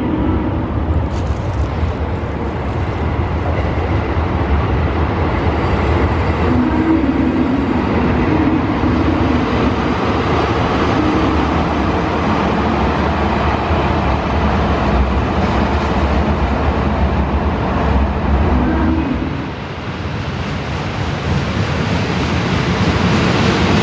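KiHa 54 diesel railcar running, a steady low engine rumble with train noise; it eases off briefly about 19 seconds in, then builds again near the end.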